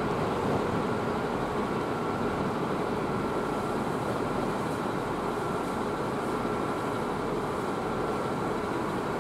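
JR 701 series electric train running away across the station points: a steady rumble of wheels on rail, with a faint high tone for a few seconds in the middle.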